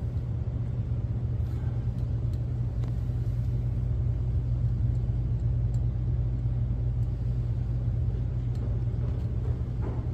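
Steady low mechanical rumble of something running, with no change in pitch.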